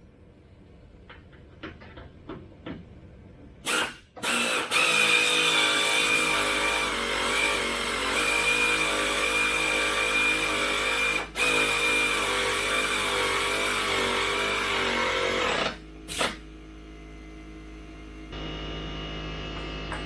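A power tool running steadily with a whine for about eleven seconds, with one brief stop partway, after a few light clicks; used in bolting the engine into place.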